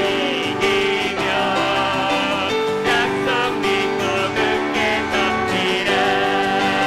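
Live church praise-band music: a worship song with singers over instrumental accompaniment.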